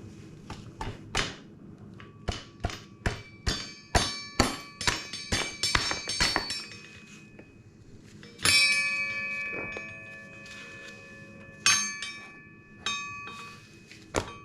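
Metal parts struck during rear brake and wheel assembly: a quick run of about a dozen sharp taps, then three clanks about 8, 12 and 13 seconds in, each leaving the metal ringing with a bell-like tone that fades away.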